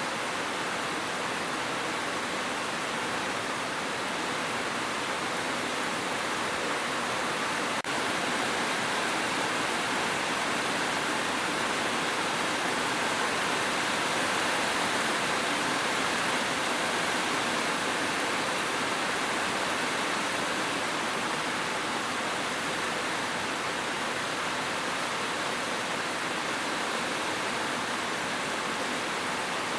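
Steady, even hiss of heavy rain, with a single brief click about eight seconds in.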